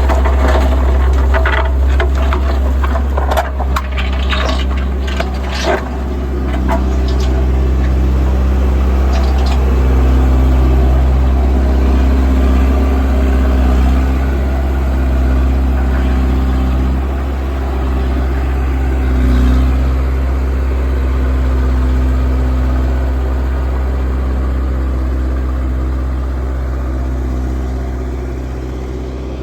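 Volvo vibratory road roller's diesel engine running steadily with a strong low hum. Scattered clicks and knocks come over it during the first six seconds or so.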